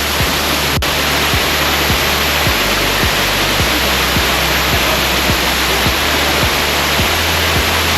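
Waterfall pouring into a pool, a steady loud rushing, with background music carrying a steady bass beat underneath.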